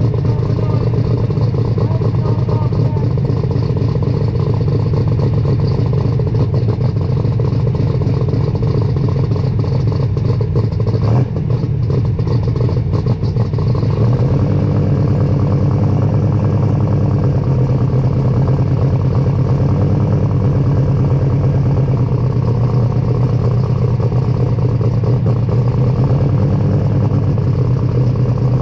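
Superstock pulling tractor's multi-turbo diesel engine running loud and steady, its pitch holding level with a slight change about halfway through.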